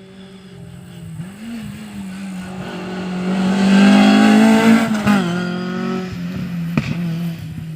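Rally car's engine at full throttle, approaching and growing louder and higher in pitch, peaking about four to five seconds in. It then drops in pitch as the car passes and goes away. One sharp crack near the end.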